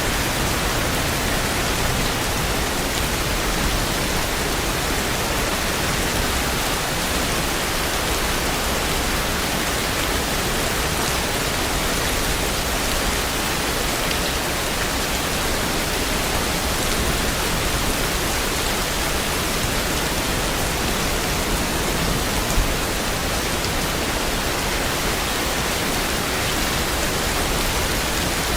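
Steady heavy rain, an even, unbroken hiss with a faint low rumble beneath, and one small sharp tick about three-quarters of the way through.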